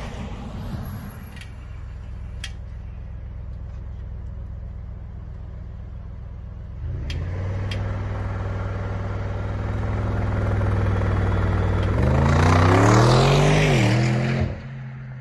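Audi RS6 C8's twin-turbo 4.0-litre V8 running steadily, stepping up in revs about seven seconds in and growing louder. Near the end it is revved up and down for about two seconds, then drops suddenly back to a low steady run.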